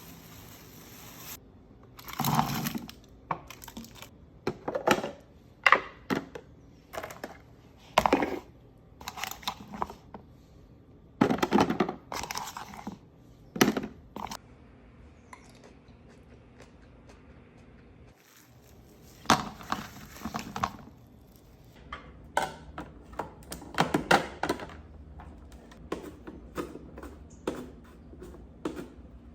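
Groceries and plastic fridge organizer bins being handled: irregular clacks, taps and crinkling of packaging in uneven bursts, with short pauses between.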